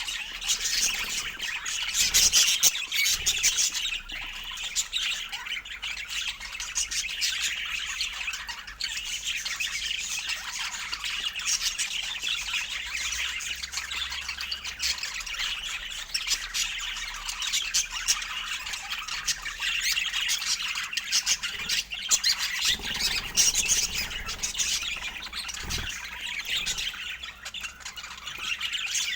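Budgerigars chattering without pause, a dense run of chirps, warbles and squawks.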